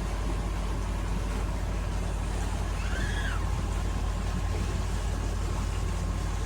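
A sailboat's engine running steadily under way, a constant low drone. A short high chirp sounds once about three seconds in.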